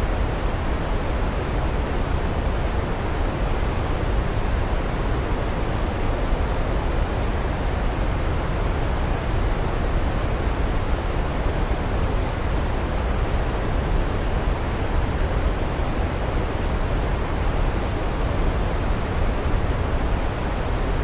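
Waterfall rushing: a steady, even wash of water noise with no breaks or changes.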